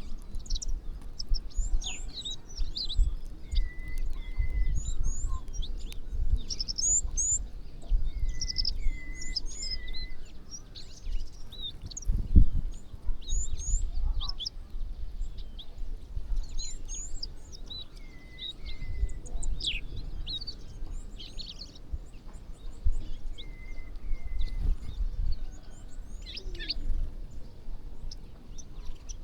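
Many birds chirping and calling together at a feeding spot, with a short two- or three-note call repeating every few seconds. Low thumps and rumble sit under the calls, the loudest about twelve seconds in.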